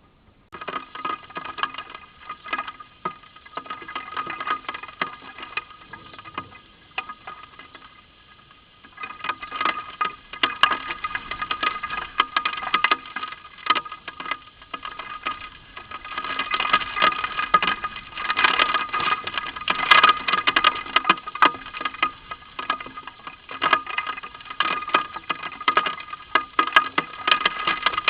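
Baby birds chirping in a rapid, continuous chatter of short high calls, louder in the second half.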